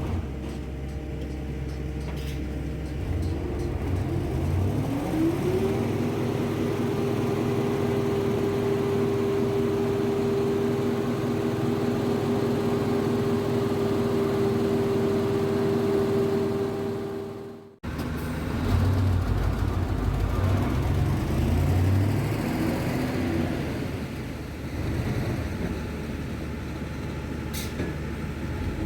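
Cement lorry's engine running, revving up about five seconds in and holding at high revs for over ten seconds. The sound drops out briefly near the middle, then the engine runs on unevenly with a heavy low rumble.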